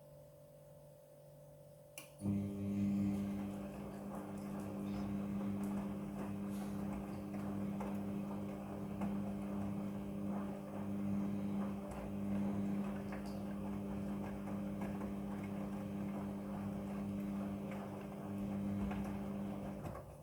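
Midea front-loading washing machine: a click about two seconds in, then a steady motor or pump hum with water noise that cuts off suddenly near the end.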